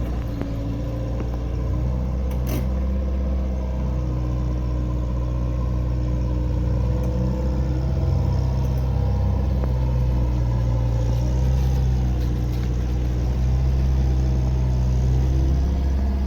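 Diesel engine of a Kobelco mini excavator running steadily while it works.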